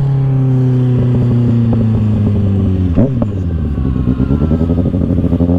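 Kawasaki Ninja ZX-6R 636's inline-four engine running on the road, its note sinking slowly as the revs fall. About three seconds in there is a quick dip and rise in pitch, and after it the engine note turns uneven and pulsing at low revs.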